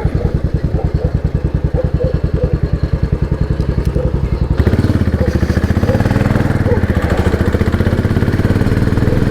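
Royal Enfield Bullet 500 single-cylinder motorcycle engine idling with a regular, even beat. About halfway through it is revved and pulls away, the pitch rising and the sound turning denser, with more rushing noise on top.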